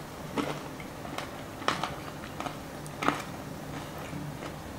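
A person chewing a mouthful of breaded air-fried chicken thigh: a few short, sharp chewing sounds spaced about half a second to a second and a half apart, over a faint steady low hum.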